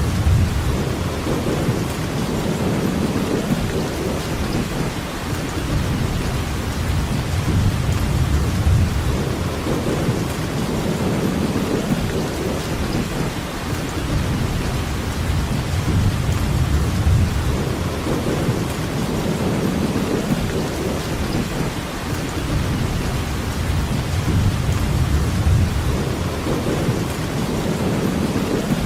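Steady rainfall, an even hiss, over a low rumble that swells and fades every few seconds.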